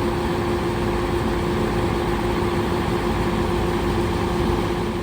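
Grain truck's engine running steadily, with a held drone at one pitch.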